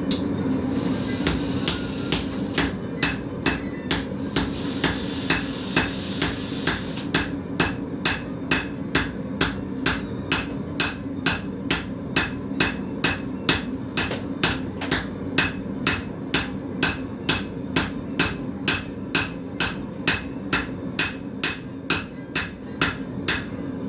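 Blacksmith's hammer forging steel on an anvil in a steady rhythm, about two and a half blows a second, over a steady low hum.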